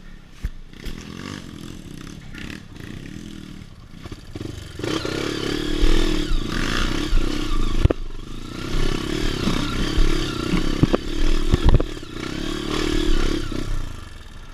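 Trail motorcycle engine running and revving, moderate for the first few seconds and louder from about five seconds in, with scattered sharp knocks and clatter.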